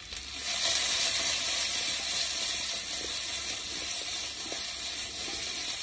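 Halved Brussels sprouts hitting hot oil in a frying pan and sizzling, starting suddenly just after the start and then frying with a steady hiss.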